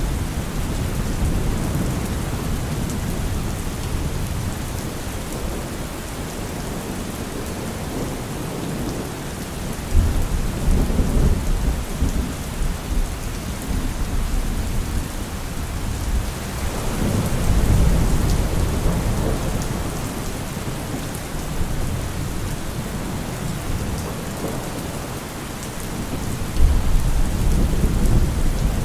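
Heavy rain falling steadily with a constant hiss, broken by deep rumbles of thunder three times: one breaking suddenly about a third of the way in, one swelling and fading past the middle, and one breaking sharply near the end.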